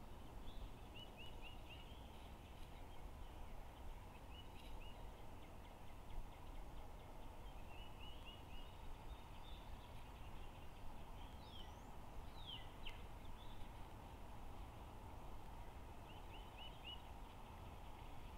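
Faint songbird calls: short quick runs of three or four high chirps, repeated several times, with a few sweeping calls around the middle, over a steady low background rumble.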